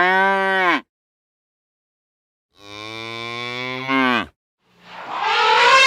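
Domestic cow mooing twice: the tail of one moo, then a second full moo about a second and a half long that drops in pitch at its end. Near the end a different, steady, higher-pitched call begins.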